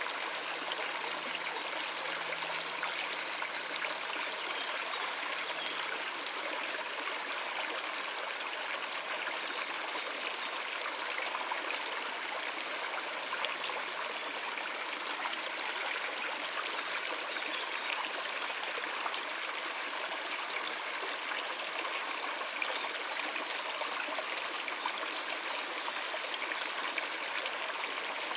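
Stream water rushing and trickling steadily over rocks, an even, unbroken flow.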